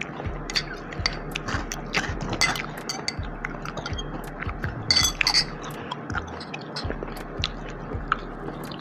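A person chewing and biting food close to the microphone, with many short clicks and clinks of cutlery and dishes.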